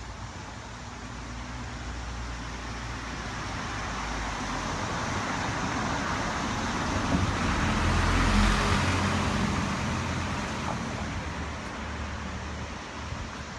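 A car passing by: its tyre and engine noise slowly grows louder to a peak about eight seconds in, then fades away.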